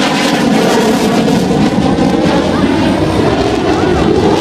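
Loud, steady aircraft engine noise.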